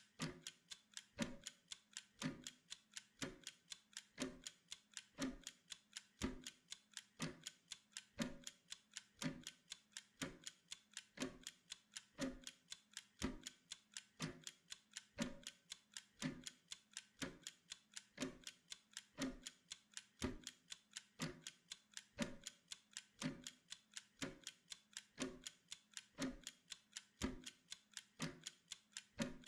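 A timer ticking like a clock: sharp, even ticks at a steady pace.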